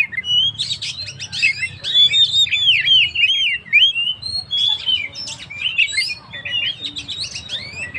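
Oriental magpie-robin (kacer) singing continuously: a fast, varied stream of whistled and chirping notes, many quickly rising and falling, with a faint low hum underneath.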